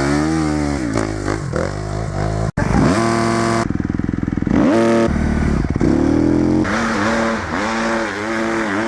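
Dirt bike engines revving, the pitch rising and falling again and again, with an abrupt break about two and a half seconds in.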